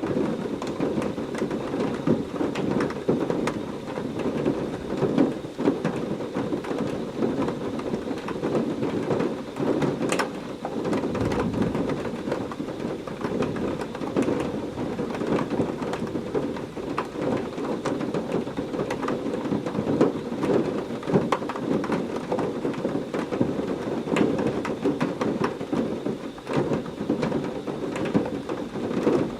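Heavy rain pouring steadily, with many individual drops pattering and a low thunder rumble about a third of the way in.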